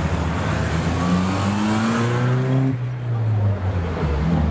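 Car engines running in a slow procession, with one engine revved up: its pitch rises for about two seconds, then drops back to a lower steady note.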